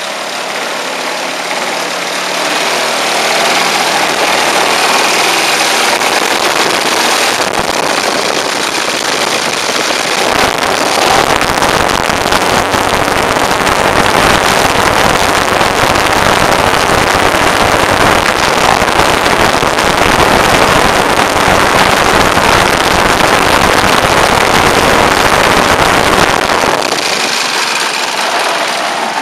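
Engine and propeller of a Comp Extra 260 model aerobatic plane running on a ground test. It is throttled up over the first few seconds, holds a steady full-power run, then is throttled back near the end.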